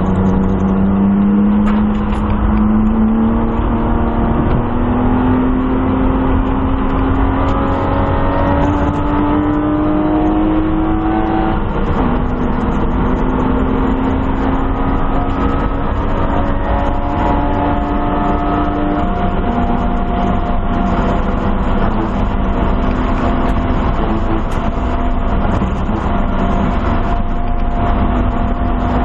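1997 BMW M3's straight-six engine accelerating hard, heard from inside the stripped, caged cabin: its pitch climbs steadily through a gear, drops at an upshift about twelve seconds in, climbs again and drops at a second upshift about nineteen seconds in, then holds nearly level near the end.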